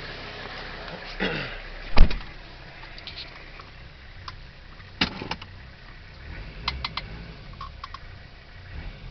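Turbo diesel engine idling low and steady, with one sharp, loud knock about two seconds in and a scatter of lighter clicks and taps later on, while the propane regulator is being turned down.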